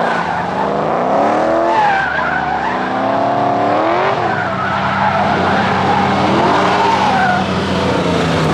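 Drift car engine revving hard, its pitch climbing and dropping every second or so, over tyre squeal and skidding. A steadier engine hum sits underneath from about halfway.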